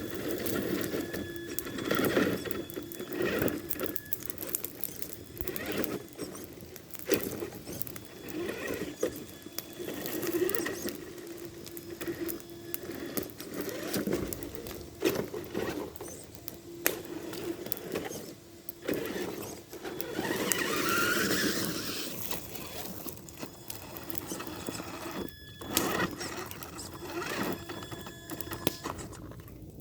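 Tamiya TXT-2 RC monster truck's motor and geartrain whining in short stop-start bursts as it crawls, with clicks and knocks from the truck working over the ground. About two-thirds of the way through comes one longer whine that rises in pitch.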